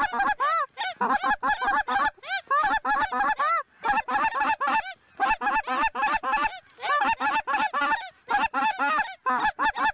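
A flock of lesser Canada geese calling: many short, high, overlapping honks in quick succession, each rising and falling in pitch, in dense runs with brief pauses.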